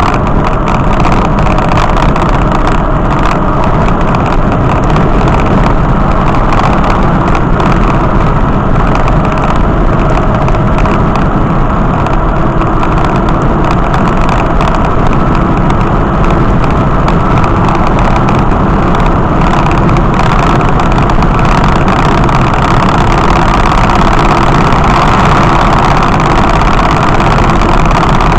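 A vehicle on the move: loud, steady engine and road noise with no change in pitch.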